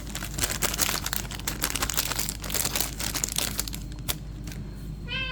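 Plastic blind-box packaging crinkling and rustling as it is handled and unwrapped, in a dense run of small crackles. Near the end a cat starts a meow that falls in pitch.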